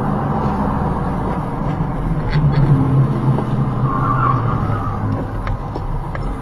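A car driving on the road, heard from inside: steady engine hum and road noise, with a brief higher-pitched sound about four seconds in.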